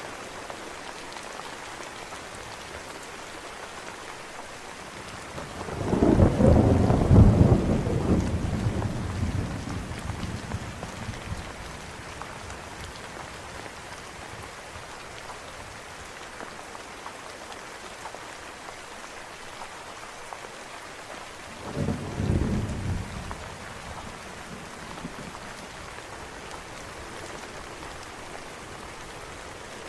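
Steady rain falling, with two claps of thunder: a long, loud rumble about a fifth of the way in that dies away over several seconds, and a shorter, weaker one past the two-thirds mark.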